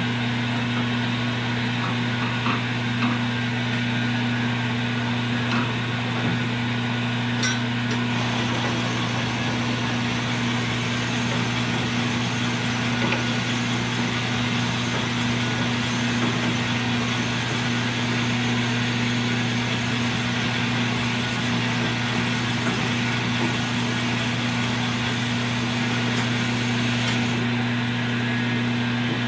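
Electric honing machine running steadily with a constant low mains hum and a dense grinding hiss, as the connecting-rod bushing is honed out toward size.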